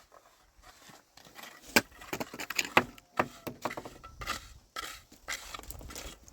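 Irregular knocks and clatter of hard objects being handled, loudest about two seconds in.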